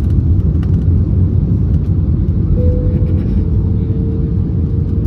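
Airbus A321neo cabin noise: a steady low rumble of engines and airflow heard from a passenger seat. About halfway in, a thin steady tone joins it and drifts slightly lower in pitch, with a few faint ticks.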